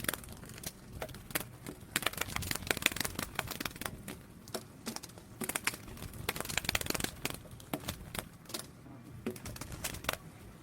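Silkworm caterpillars chewing leaves: a dense, irregular crackle of tiny clicks, like soft typing or crinkling.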